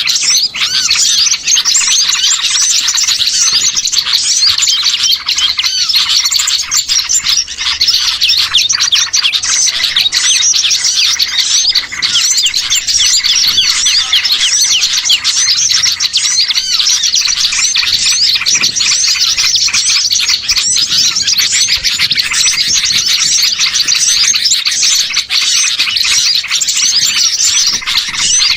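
Dense, noisy chorus of many small songbirds chirping and chattering over one another without a break, a bird-lure recording meant to draw small birds in.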